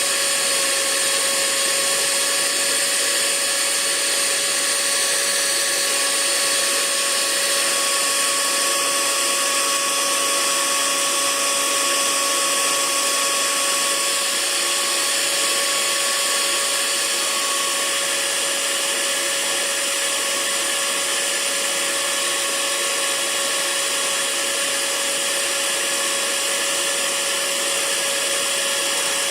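Hair dryer running steadily: a continuous rush of air with a steady motor whine in it.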